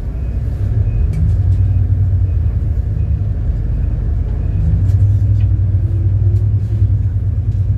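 A city bus's engine and road noise heard from inside the cabin: a steady low rumble as the bus runs.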